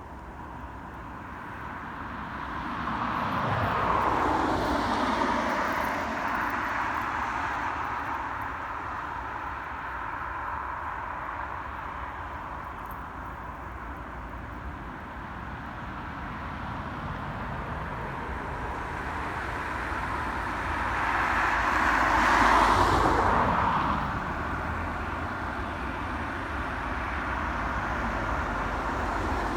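Two vehicles pass close by one after another, each falling in pitch as it goes past, the second a little louder, over a steady engine rumble.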